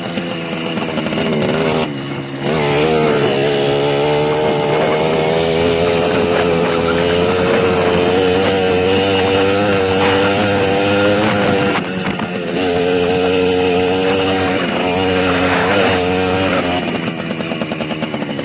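Small motorcycle engine running at high revs while being ridden, its pitch wavering with the throttle. It backs off briefly about two seconds in and again around twelve seconds, then runs less evenly near the end.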